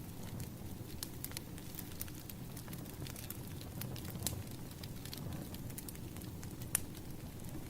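Wood fire crackling: irregular sharp pops and snaps over a low, steady rumble, with one louder pop near the end.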